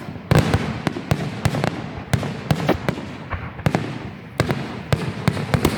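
Fireworks display: a dense run of sharp bangs and crackles over a low rumble, with a loud burst of shots just after the start and another flurry a little past four seconds in.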